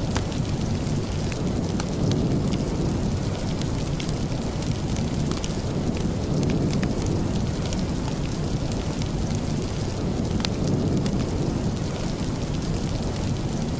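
Steady rain with a deep low rumble underneath and scattered sharp ticks of drops or crackles throughout.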